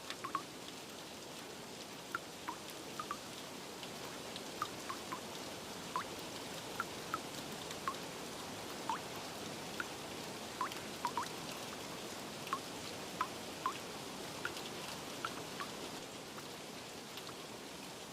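Steady rain hiss with single drips plinking irregularly over it, about one a second.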